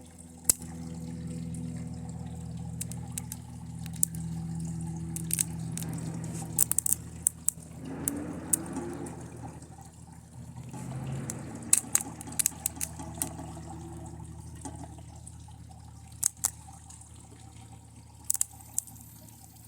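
Sharp, irregular crackles and snaps of high-current arcing and burning as lead-acid battery leads touch a TV circuit board, over a low steady hum, with a couple of louder hissing swells midway.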